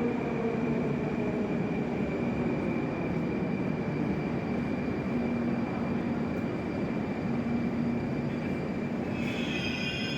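Moscow Metro train running through the station: a steady rumble with a faint steady whine, and a high-pitched squeal setting in near the end.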